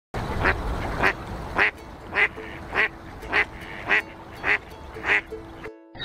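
Mallard duck quacking in a steady series, nine quacks a little over half a second apart, cutting off suddenly near the end.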